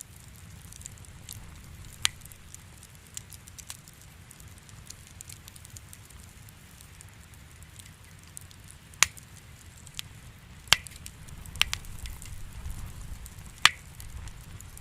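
Wood fire in a fireplace crackling, with scattered sharp pops over a low steady rumble of the flames; the pops come more often and louder in the second half.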